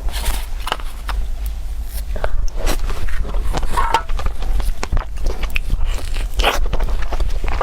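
Close-up eating sounds: a person biting and chewing crunchy food, with many irregular crisp crackles and crunches, over a steady low hum.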